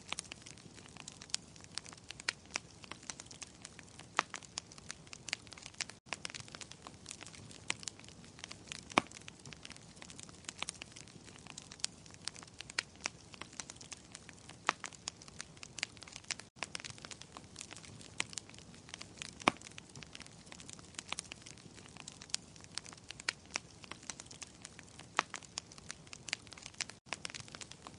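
Wood fire crackling in a fireplace: irregular sharp pops and snaps, some much louder than others, over a soft steady hiss. The sound briefly drops out three times, about every ten seconds.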